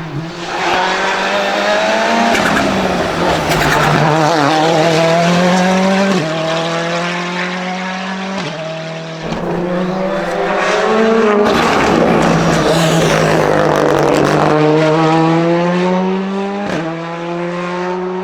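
Hill-climb race car engine at high revs, its pitch rising under acceleration and jumping sharply at several gear changes.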